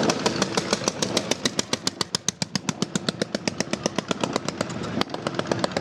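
Vintage motorcycle engine running with a rapid, even beat of exhaust pulses, about ten a second.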